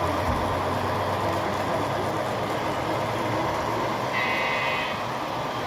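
Model diesel locomotives running on the layout, a steady mechanical rumble of motors and wheels on track, with a short high tone about four seconds in.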